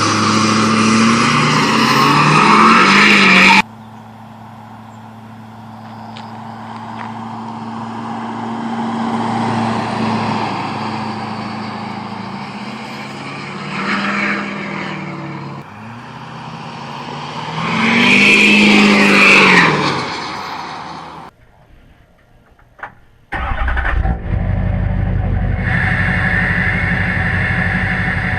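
Straight-piped 2008 LMM Duramax 6.6-litre V8 turbodiesel, with its cat, DPF and muffler deleted, accelerating and passing by; the exhaust note rises and falls with the revs. The sound breaks off abruptly several times, with one loud pass about two-thirds of the way in and a steady low rumble after a short quiet gap near the end.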